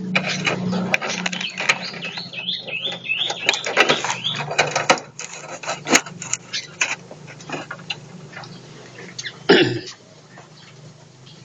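Small birds chirping in an aviary, with a quick run of about five rising notes a couple of seconds in, among scattered clicks and rustles over a steady low hum. One louder sharp knock comes near the end.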